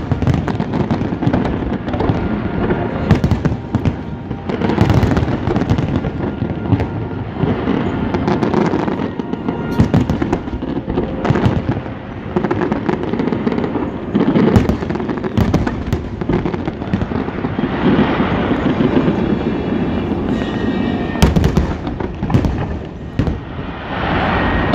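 Large aerial fireworks display: a dense, unbroken run of shell bursts and crackling bangs over a constant low rumble.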